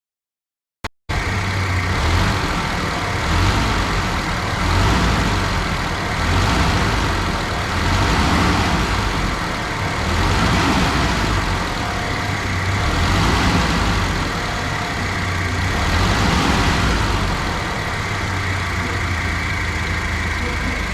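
Mitsubishi 1.75-ton truck's diesel engine running steadily, cutting in abruptly about a second in and rising and falling in level every couple of seconds.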